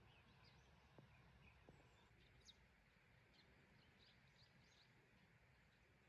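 Near silence, with faint, short bird chirps, several in quick succession from about two seconds in.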